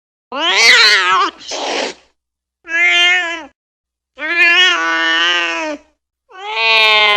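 Cat meowing: four drawn-out, angry-sounding meows with short silences between them. The first wavers in pitch and breaks off roughly, and the last is held long and steady near the end.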